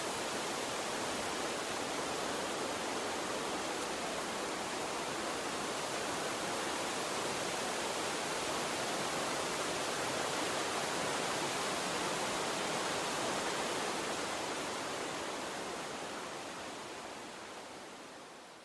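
A water stream running with a steady, even rush, fading out over the last few seconds.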